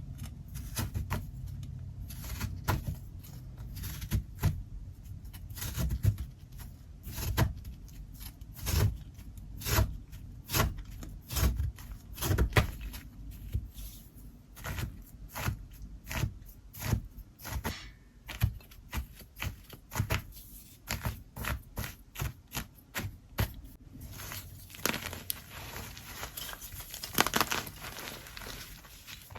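Gym chalk and kinetic sand being chopped and crushed: repeated sharp chops with a low thud under many of them, about one or two a second, giving way to a denser run of crumbling crackle a few seconds before the end.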